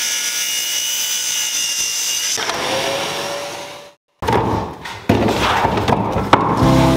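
A power tool running on wood with a steady high whine, dying away a little over halfway through. Then comes rougher woodworking noise with a few sharp knocks, and background music comes in near the end.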